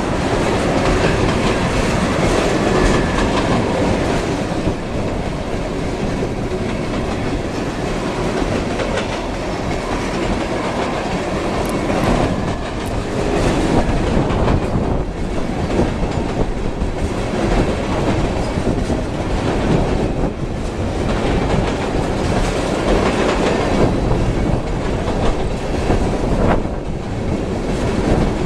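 Long freight train of ethanol tank cars rolling past close by, its steel wheels clacking over the rail joints in a steady repeating rhythm.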